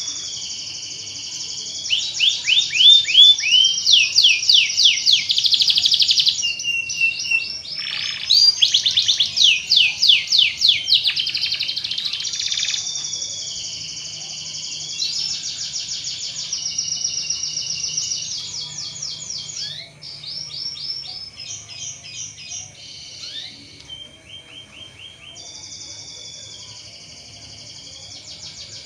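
Domestic canary singing a long, unbroken song of rapid rolling trills, each made of fast-repeated sweeping notes, high-pitched and loudest in the first half.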